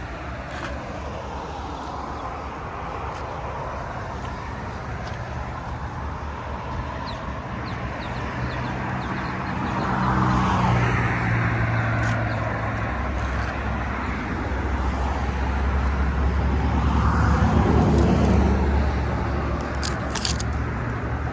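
Road traffic going by: a steady background of traffic noise with two vehicles passing, one about halfway through and a louder one later on.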